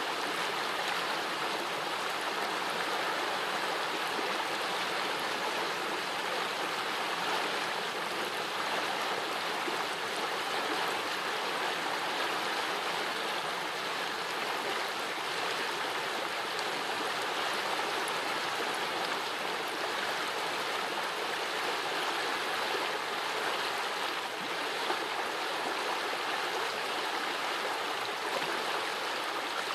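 Small forest brook running over stones, a steady babbling rush of water.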